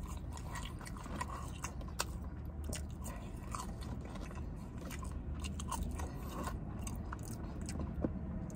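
A person chewing a mouthful of McDonald's french fries with open-mouthed wet smacking and many small crisp clicks, over a low steady hum.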